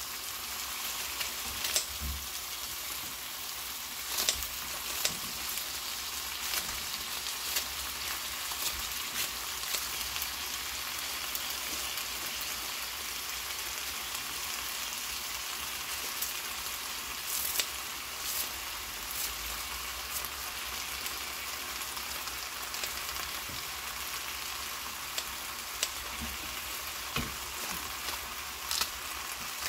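Sundae (Korean blood sausage) frying in a little oil in a frying pan over low heat, a steady sizzling hiss. Scattered sharp snips and clicks come through it as vegetables are cut with kitchen scissors and fall into the pan.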